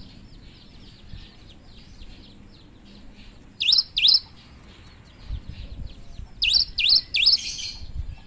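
Cinereous tit (gelatik batu) singing: loud, sharp notes that sweep quickly downward, two in a row a few seconds in and three more near the end, over a soft, fast chatter of quieter high notes.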